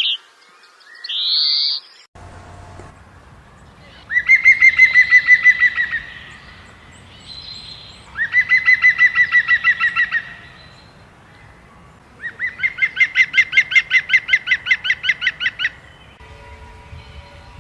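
A songbird singing a rapid trill of evenly repeated notes, given three times, each phrase lasting two to three seconds. A short rising high call comes just before it.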